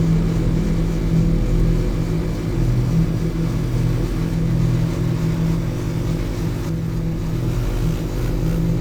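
Dirt bike engine running steadily, its pitch holding level throughout.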